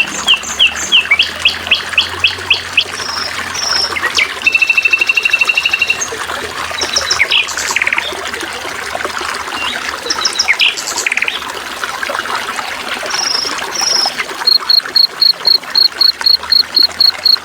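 Songbirds chirping and calling over a steady trickle of water: a run of quick chirps, a buzzy trill a few seconds in, scattered calls, then a fast, even series of high pips, about five a second, starting near the end.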